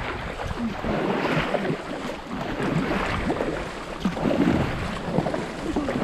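Kayak paddles digging in hard and splashing through river water as the kayak is driven at full speed to ride over a log, with water churning and gurgling around the hull.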